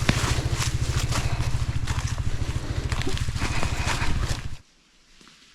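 A CFMoto off-road vehicle's engine running as it drives, a steady low pulsing with scattered clicks and rattles. It cuts off abruptly about four and a half seconds in, leaving only faint outdoor background.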